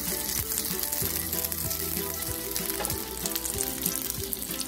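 Mutton kababs shallow-frying in a little oil in a non-stick frying pan on full flame, sizzling and crackling steadily as their outsides brown.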